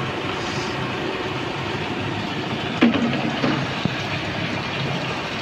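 Mitsubishi Adventure engine idling steadily while coolant drains into the open radiator, with one sharp click about halfway through.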